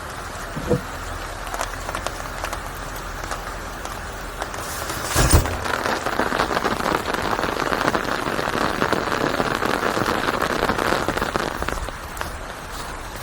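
Steady rain falling on a surface, with many individual drops ticking. The rain grows heavier about five seconds in and eases off near the end. A single dull thump sounds just before it gets heavier, and a brief knock comes near the start.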